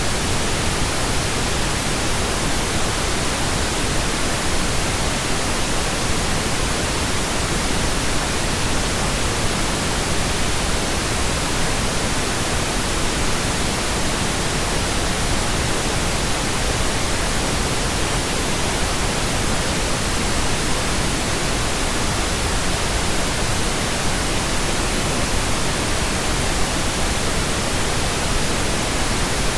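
Steady, unbroken pink noise generated in Audacity: an even hiss spread across all pitches, with no events or changes.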